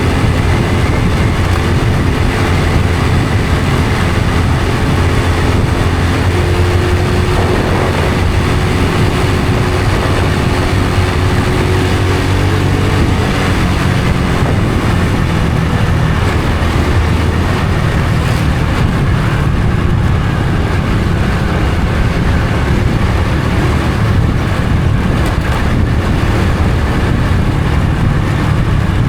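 Honda Supra X 125 FI's single-cylinder four-stroke engine running while the motorcycle is ridden, under heavy wind and road noise on the microphone. The engine note shifts in pitch as the speed changes, settling lower in the second half.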